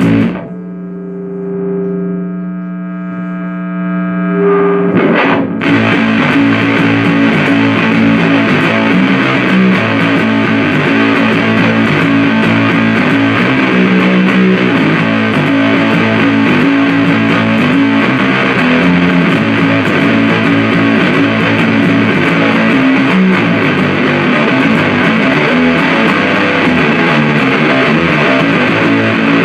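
Distorted riffing played through a Supercoolpedals 77 Fuzz Blender, a Big Muff-style fuzz pedal, into an amp. It opens with one held note or chord that rings out and fades for about five seconds, then thick, heavy fuzz riffing starts and runs on steadily.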